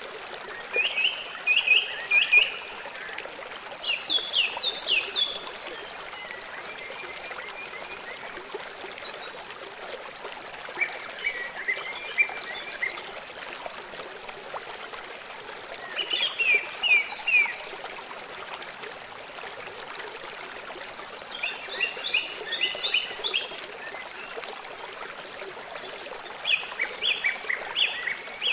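Stream running steadily, with a songbird singing short phrases of quick high notes every few seconds.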